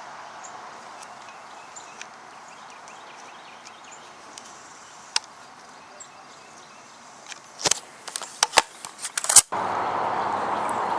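Steady outdoor background hiss with a few faint bird chirps. Near the end comes a quick run of sharp knocks and clicks, then the sound cuts abruptly to a louder steady hiss.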